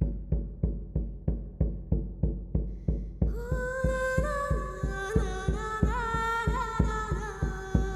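A drum beating a steady pulse, about three beats a second, with a voice entering about three seconds in and singing a long, wavering melody over it.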